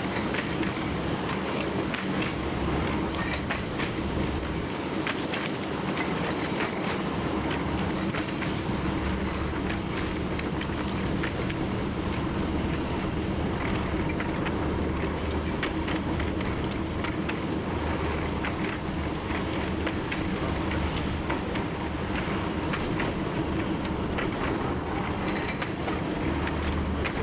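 TU7 narrow-gauge diesel locomotive running steadily under way, its engine humming low, with irregular clicks and knocks of the wheels on the track, heard from inside the cab.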